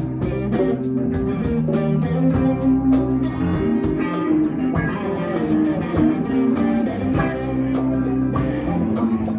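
Live band playing a guitar-led instrumental passage, electric guitar and bass over a steady quick beat.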